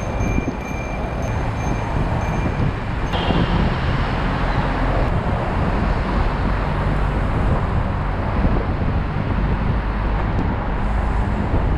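Steady rushing road and wind noise while riding a bicycle, heaviest in the low end, with a faint high tone over the first three seconds.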